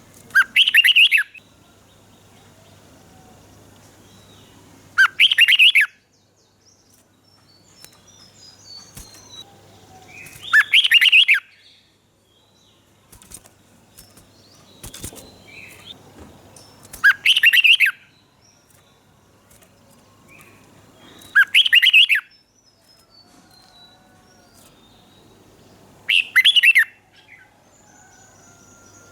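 Red-whiskered bulbul singing: six short, loud song phrases of about a second each, repeated every four to six seconds, with fainter chirps between them.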